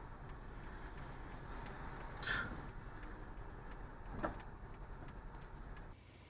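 Steady car road and engine noise as heard from inside a moving car, with faint regular ticks about every 0.7 s. There is a short loud rush of noise about two seconds in and a sharp knock about four seconds in, and the noise drops abruptly near the end.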